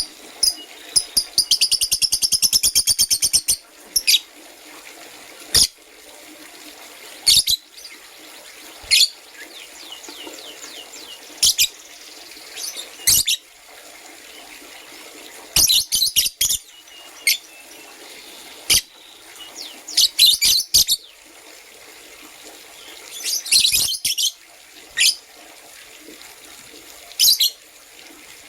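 Lovebirds chirping: short, sharp high calls scattered throughout, with a fast chattering run of quick notes lasting over two seconds about a second in, and bursts of several calls at a time later on.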